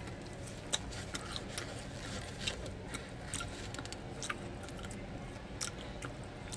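Quiet chewing: scattered small wet clicks and smacks of a person eating a burger, over a low steady hum.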